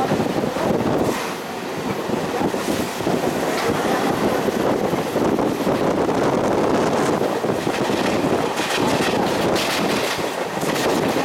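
Mumbai suburban electric train running at speed, heard from inside the carriage: steady rumble and rattle of the coach with its wheels clacking over rail joints, and a quick run of clacks about nine seconds in.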